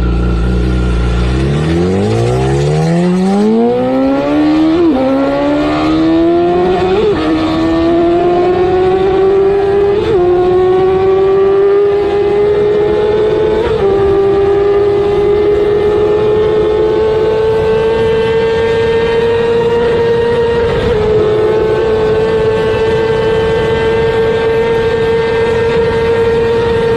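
Superbike engine under full acceleration, its pitch climbing through the gears with about five quick upshifts, the later gears stretching out longer as it nears top speed and the engine note rises slowly and levels off. Wind noise runs under it.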